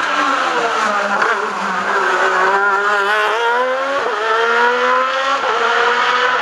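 Racing car engine at high revs, climbing through the gears. Its pitch falls in the first second or so, then rises steadily, dropping sharply at upshifts about four seconds in and again about five and a half seconds in.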